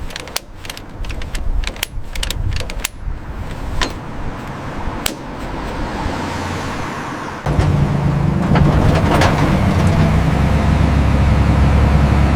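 Sharp metallic clicks and clanks of workshop work. About halfway through, a loud, steady, low car-engine drone cuts in abruptly.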